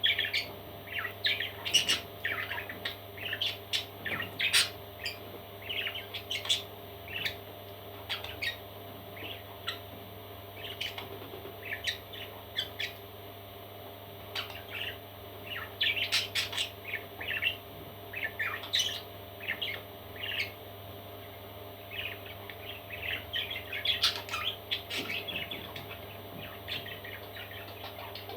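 Parrot chicks chirping and squawking in short, sharp calls that come in clusters with brief pauses, over a steady low hum.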